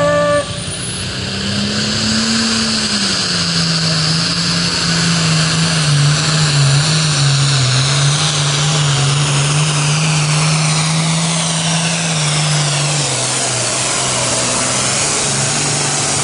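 Pro stock pulling tractor's turbocharged diesel engine running hard under load down the track, with a high whine over it. The engine note sags in pitch partway through and drops about three seconds before the end.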